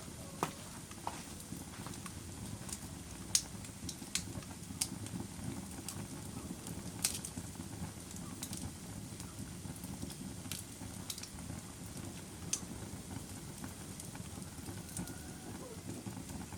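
Wood fire burning in a fireplace, a steady low rush with sharp crackles and pops at irregular intervals.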